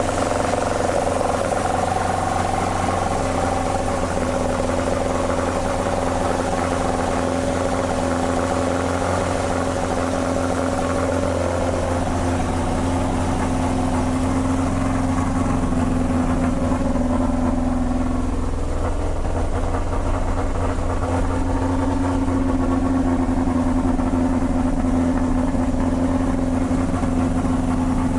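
Toyota 20-valve (5-valve-per-cylinder) 4A-GE inline-four idling steadily, heard through a current-model Toyota 86/BRZ muffler.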